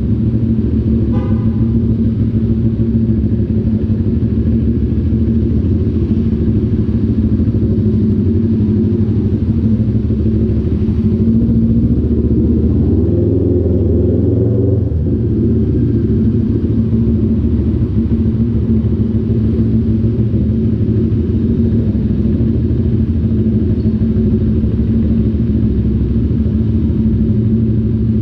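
CF Moto 400NK motorcycle's two-cylinder engine running at a nearly steady engine speed, heard from the moving bike.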